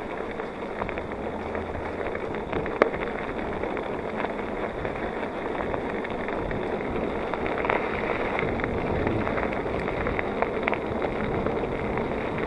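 Aluminium 29er hardtail mountain bike ridden at speed over a wet, rough trail: a steady rolling rumble of tyres on the ground with a few sharp clicks and knocks from the bike.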